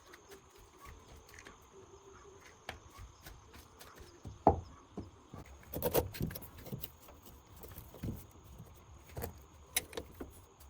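Scattered knocks and clinks of hand work on metal, with a sharper knock about four and a half seconds in and a cluster of knocks around six seconds. A faint steady high whine runs underneath.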